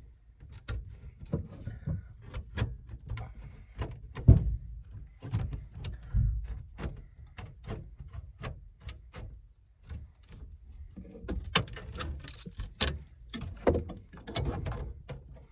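Irregular knocks, clicks and thumps of hands handling equipment, with a heavy thump about four seconds in and a quick run of sharp clicks about eleven to thirteen seconds in.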